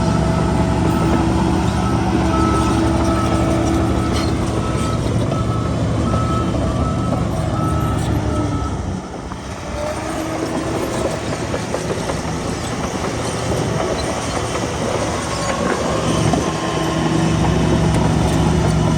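Heavy diesel earthmoving machinery running under load, with a reversing alarm beeping on and off. The engine note drops briefly about halfway through, then comes back up.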